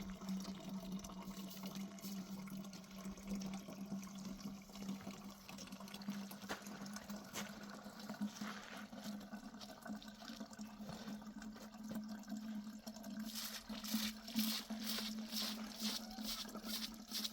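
Water running and trickling over a steady low hum. In the last few seconds, a quick run of short, regular strokes joins in.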